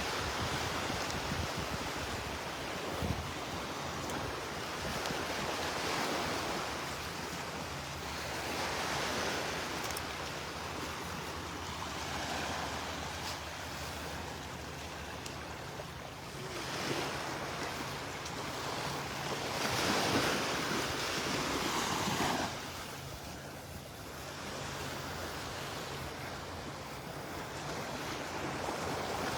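Small surf waves breaking and washing up the beach, swelling in several surges a few seconds apart, with some wind buffeting the microphone.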